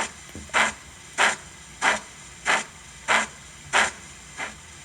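Steam-locomotive exhaust chuffs from an ESU LokSound v5 sound decoder in a Hornby OO-gauge Coronation Class model, played through the model's small speaker. The hissing chuffs come at an even beat of about three every two seconds. They are the alternative chuff sound just selected with function F10.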